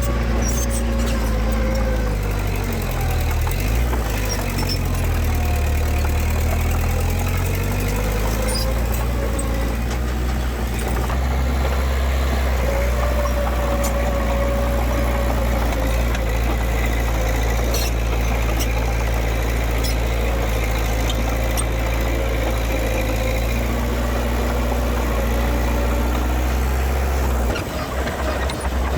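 Diesel engine of heavy earthmoving machinery running under load. Its pitch rises and falls for a few seconds early on, then holds steady, with a thin whine above it. The level dips briefly near the end.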